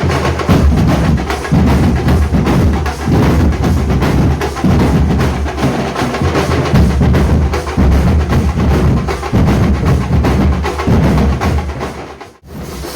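Nasik dhol ensemble playing: large barrel drums beating a fast, loud, dense rhythm with sharp cracking strokes over the deep booms. It drops out for a moment near the end, then resumes.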